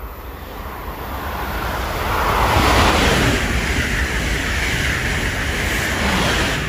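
Amtrak Acela high-speed electric trainset passing at speed: a rushing noise of wheels and air that builds as it approaches, is loudest from about two and a half seconds in while the cars sweep by, and eases off near the end as the rear power car passes.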